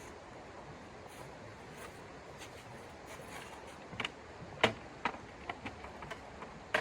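A steady low hiss, then from about halfway in a scattered run of sharp clicks and knocks, the loudest a little past the middle.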